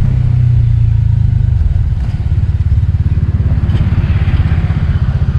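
A 150cc motor scooter engine running with a steady low rumble. About a second and a half in, the rumble changes to an even, rapid pulsing beat.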